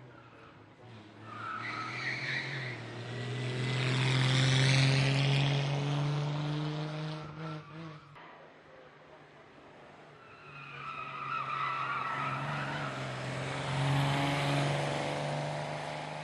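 Classic racing car engines at hard throttle on a hill-climb course, in two separate surges: the first builds from about a second in, peaks around five seconds and fades, the second rises around ten seconds in and fades near the end.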